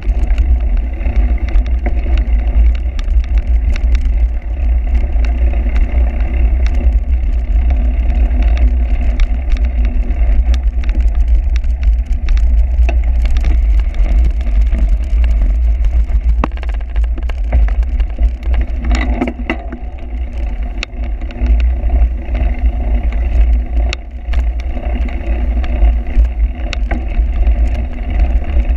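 Heavy wind rumble on the microphone of a cyclocross bike in motion, with constant rattling and clicking as it runs over rough ground.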